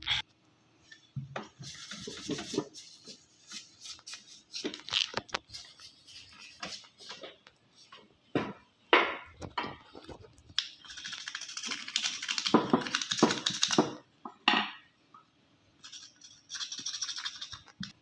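A screwdriver scraping hard-water scale off the rotor of a Bajaj Frio air cooler's submersible water pump, in irregular scraping strokes with small clicks and knocks of metal on the parts.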